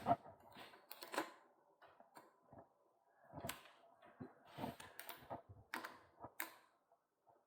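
Faint, irregular light clicks and taps, a dozen or so, of small bicycle parts and hand tools being handled and fitted on a workbench.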